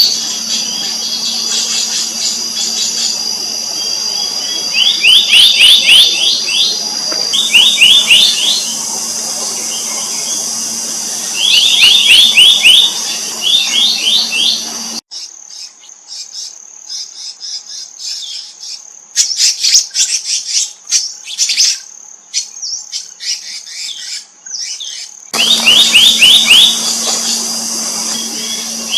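Black-naped monarchs calling: short bursts of rapid, ringing notes repeated every few seconds, over a steady high whine and a low hum. About halfway through the background drops away abruptly, and for about ten seconds the calls come thinner and higher before the first sound returns.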